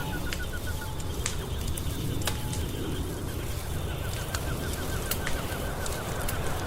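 Wood fire crackling in a fireplace: scattered sharp pops and snaps over a steady low rumble. Twice a fast run of short, evenly spaced chirps sounds over it, once at the very start and again from about four seconds in.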